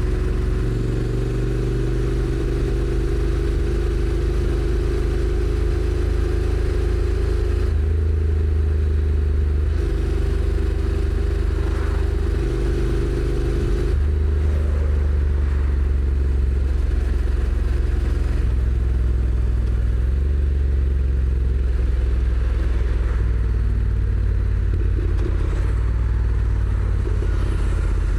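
Honda NC750X's parallel-twin engine running as the bike rides along, its note holding steady and then stepping to a new pitch a few times along the way.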